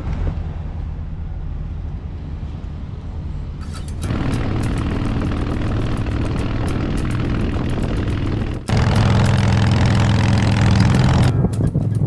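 Harley-Davidson motorcycle engine running under way, with wind noise, in three stretches that change abruptly about four and nine seconds in, each louder than the last.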